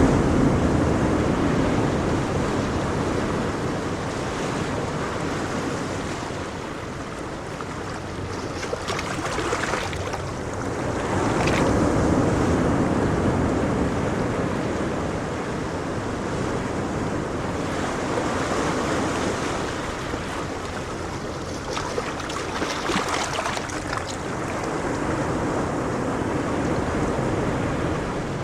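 Ocean waves breaking and washing on a shore, the surf swelling and ebbing every several seconds, with some wind noise.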